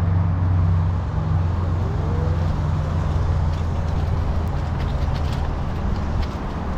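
Road traffic: a motor vehicle's low engine hum, easing off after a second or two, over steady road and wind noise.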